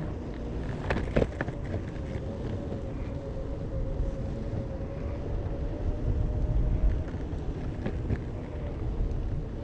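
Possway T3 electric skateboard rolling, with a steady motor whine over the rumble of its wheels on pavement and a few clicks about a second in.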